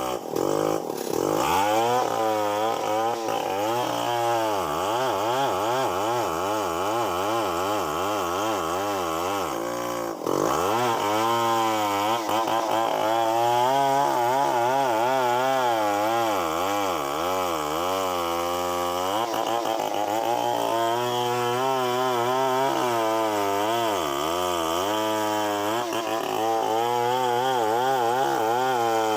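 Chainsaw running under cutting load, its engine pitch wavering up and down without a break. The sound briefly drops about a second in and again about ten seconds in.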